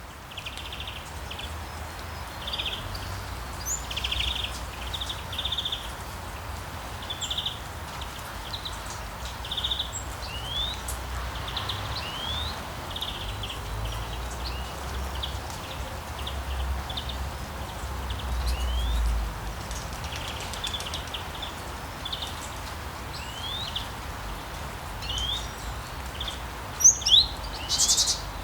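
Steady rain with birds chirping over it, repeated short calls and quick rising notes; a louder, sharper bird call near the end.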